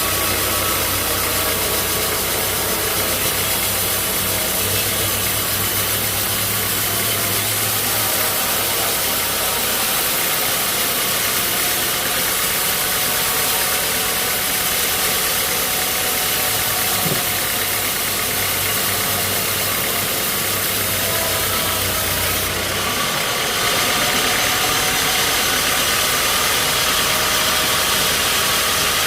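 Sawmill machinery running steadily: a low engine hum under a broad, even noise. The sound shifts and grows a little louder near the end.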